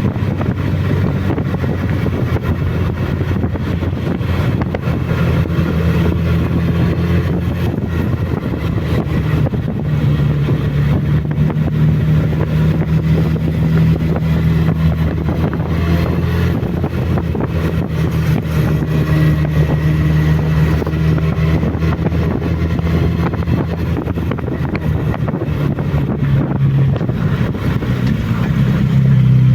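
Suzuki Bandit motorcycle's inline-four engine running at fairly steady revs while riding, with wind rushing over the microphone.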